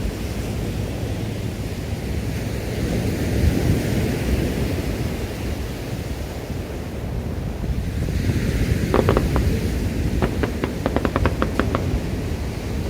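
Steady low rumble of wind on the microphone and surf, then from about nine seconds in, a dense run of sharp crackling pops from crackling firework stars bursting overhead.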